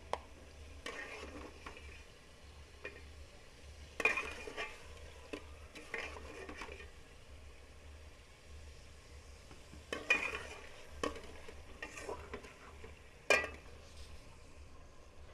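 A spoon scraping and clinking against a cooking pot as rice is worked into the biryani, in irregular strokes with a few sharper knocks, over a faint sizzle.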